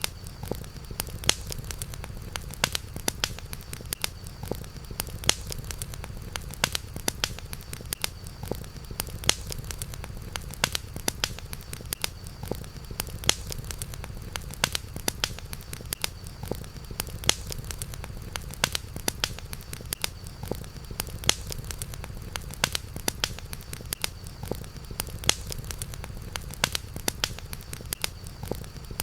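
Campfire crackling: frequent sharp pops and snaps of burning wood over a low steady rumble, with a faint steady high tone in the background.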